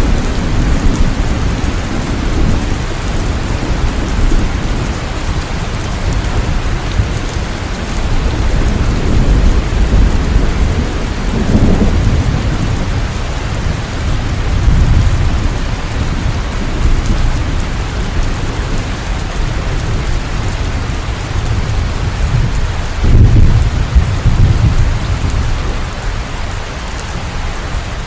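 Steady heavy rain, a dense even hiss, with low rolling rumbles of thunder swelling up several times. The loudest rumble comes about three-quarters of the way through.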